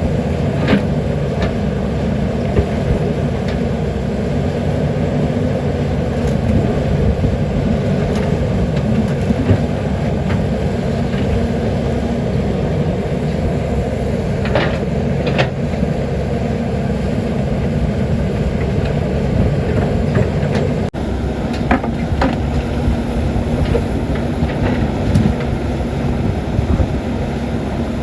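Caterpillar 320D excavator's six-cylinder diesel engine running steadily under working load, with a few sharp knocks now and then.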